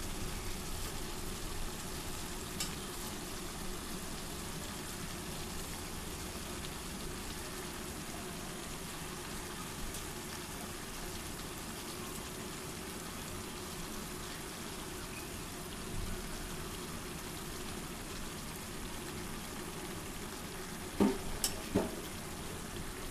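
Steady frying sizzle of chicken and potatoes in a pot on the stove, with the soaked rice just going in. Near the end a utensil knocks twice against the pot.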